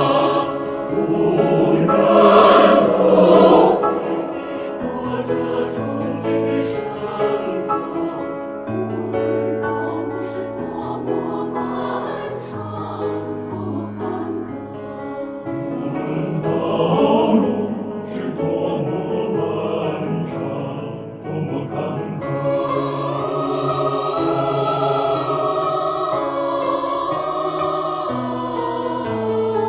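Mixed choir in several parts singing a slow, sustained choral passage over piano accompaniment. The sound swells loudest a few seconds in and again around the middle.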